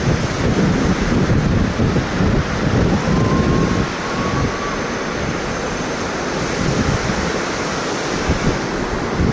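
Thomson's Falls, a 74-metre waterfall, pouring with a loud, steady rush of water. A faint thin tone rises slightly about three seconds in and lasts just over a second.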